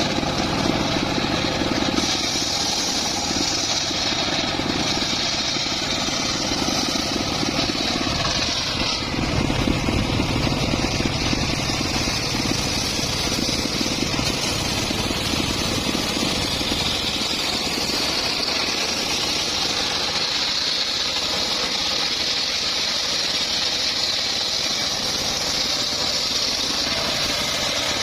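Homemade engine-driven circular sawmill running under its motor, with the blade sawing through a mahogany or teak log. A high whine comes in about two seconds in, fades around nine seconds, and builds again from about the middle.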